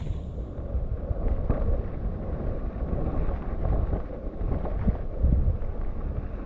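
Mountain bike descending a wet, sandy trail: a steady low rumble of tyres and bike over rough ground with scattered knocks, and wind buffeting the microphone.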